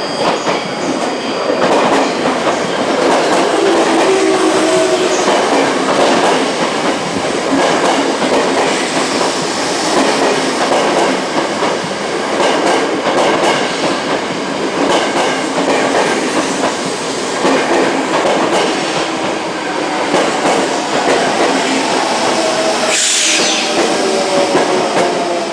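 Tokyo Metro 05 series electric train running on rails, with steady wheel clatter. A motor whine rises in pitch over the first few seconds and falls again near the end, with a brief high squeal a couple of seconds before the end.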